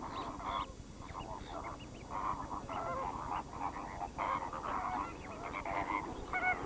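A flock of flamingos calling: many short, overlapping honks and chatters.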